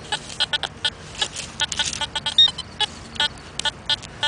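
Digging out a metal-detecting target: rapid, irregular scrapes and clicks of a hand digger working soil and turf, with a short high electronic beep about two and a half seconds in.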